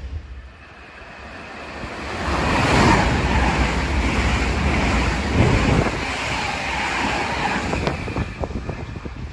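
A train passing at speed: a rush of noise that swells over the first couple of seconds and stays loud, with a quick run of knocks near the end.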